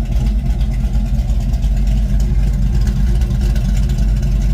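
1972 Ford Mustang Mach 1's V8, fitted with a Crane 2040 camshaft, running steadily through a Black Widow Venom race muffler on a single 3-inch exhaust.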